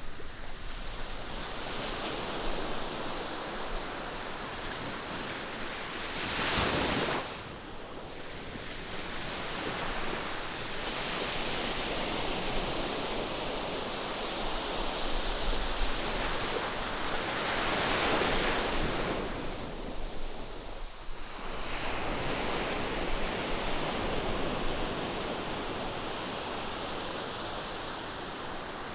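Ocean surf breaking and washing ashore in a continuous rush that swells and ebbs, with louder surges about seven seconds in and again around eighteen seconds.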